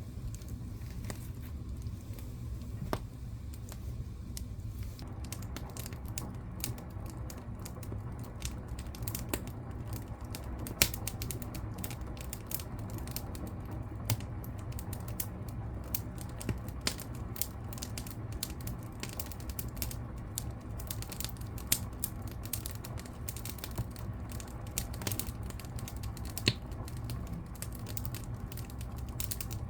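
Wood fire crackling in a fireplace: a steady low rumble of burning under dense small crackles, which thicken after about five seconds, with a few louder pops.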